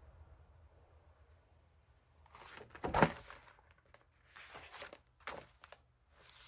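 Pages of a picture book being handled and turned: a few short rustles of paper, with a sharper thump about three seconds in.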